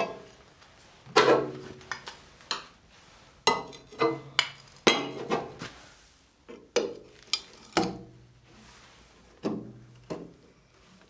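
Hammer blows on metal: a dozen or so irregularly spaced strikes, each ringing briefly.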